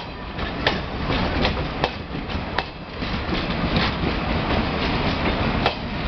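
A train rolling past with a steady rumble, its wheels knocking over the rail joints in irregular clicks.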